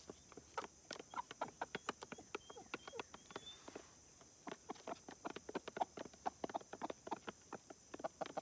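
Rapid, irregular clicking and tapping, several knocks a second, with a pause near the middle, over a steady high-pitched hum. A few short, high chirps sound in the first half.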